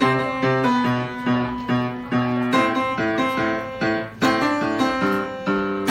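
Piano playing: a steady rhythm of bass notes and chords, struck a few times a second, under a melody.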